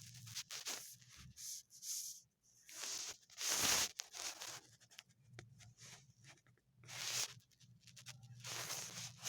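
Kittens play-fighting: irregular bursts of scuffling, scratching and rustling, with a steady low hum underneath.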